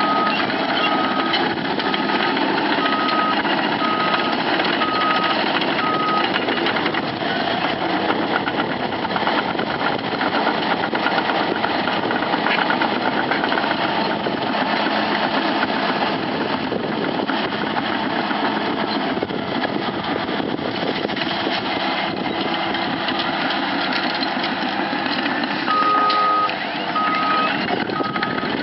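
Crawler bulldozer running under load with its tracks clattering, and its reverse alarm beeping about once a second for the first few seconds and again near the end as the machine backs up.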